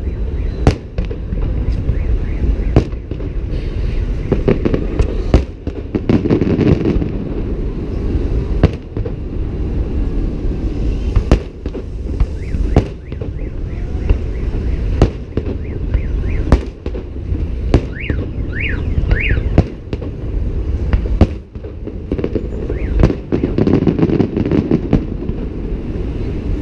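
Fireworks salute: sharp bangs going off every second or so over a continuous low rumble of bursting shells, with a few short whistles rising and falling about two-thirds of the way through.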